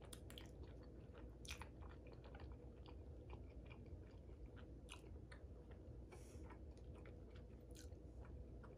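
A person chewing a mouthful of soft, cheesy lasagna, faintly, with many small irregular wet mouth clicks.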